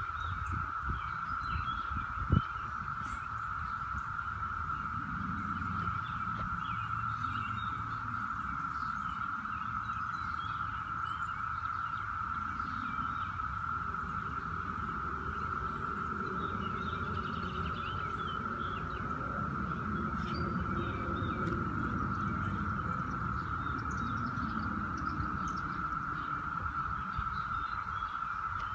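A steady drone held at one pitch throughout, the loudest sound present, with scattered short chirps above it and a low rumble beneath; a sharp click about two seconds in.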